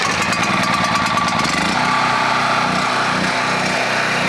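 Small gasoline engine of a gas-powered air compressor, just started cold on choke, running unevenly at first and then settling about a second and a half in to a steady run.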